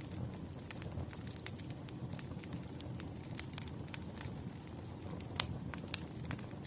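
Wood fire burning: irregular sharp crackles and pops over a steady low rumble, with one louder pop about five seconds in.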